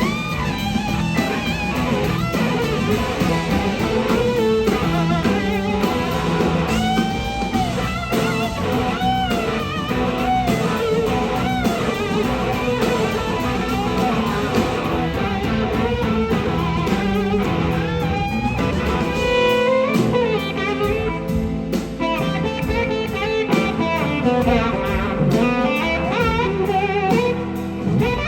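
Electric slide guitar soloing over a live blues-rock band with drums, the lead line swooping and gliding between notes.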